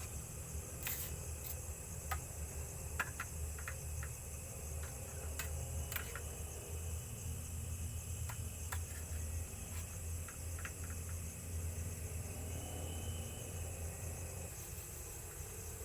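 Sardines cooking over a camp heat source: a steady low rumble under a steady high hiss, with scattered sharp clicks and ticks, most of them in the first two-thirds.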